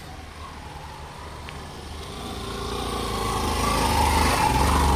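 Hero Glamour motorcycle's 125 cc single-cylinder engine revving hard as the bike climbs a sandy slope, growing steadily louder as it comes close. Near the end the rear wheel spins in the loose sand and the bike slides, losing traction.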